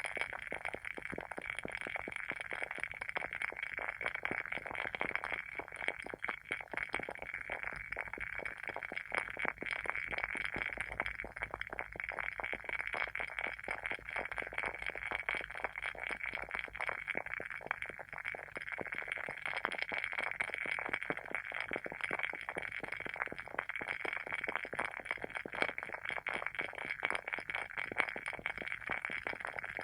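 Wooden wick of a WoodWick candle burning, giving a dense, unbroken stream of small, quick crackles and pops.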